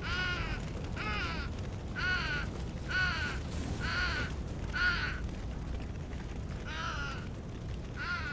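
A bird calling with harsh, repeated caws: six calls about a second apart, a pause, then two more, over a steady low rumble.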